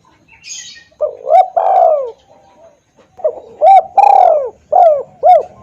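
Spotted dove (tekukur) cooing loudly, played as a lure call: two phrases of several short arching coos. A short hiss comes about half a second in.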